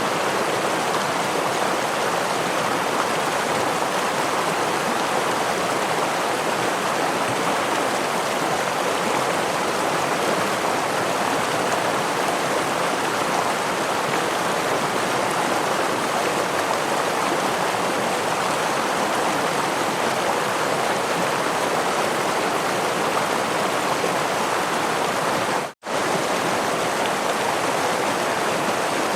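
A stream with a small waterfall, flowing water rushing steadily and evenly. It cuts out for an instant about three-quarters of the way through.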